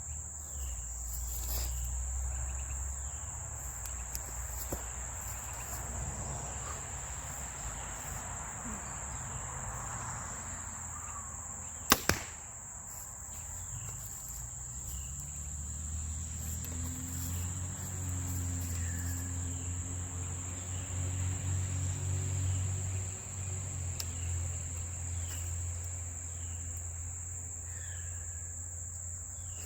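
One arrow shot from a compound bow: a single sharp smack about twelve seconds in, over a steady high chirring of crickets. A low hum swells up in the second half.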